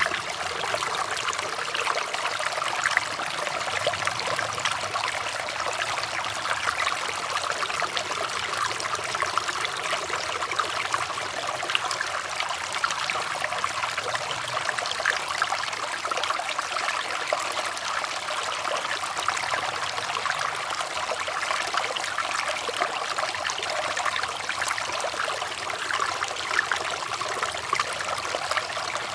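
Water flowing steadily with a constant splashing trickle, unchanging throughout.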